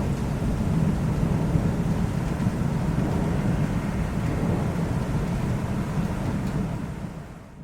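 Low, steady rumble of rolling thunder under a hiss of rain, fading away near the end.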